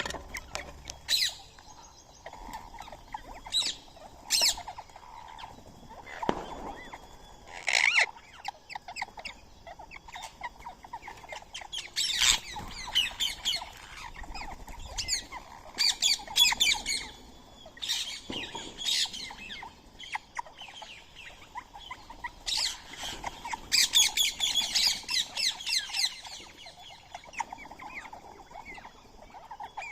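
Birds squawking in short, harsh calls, scattered at first and then in busier bursts of chatter.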